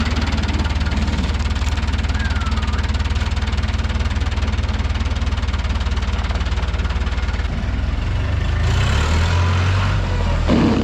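Fiat 640 tractor's diesel engine running with a steady, even firing beat. About eight seconds in the note deepens and grows louder, with a hiss for about two seconds.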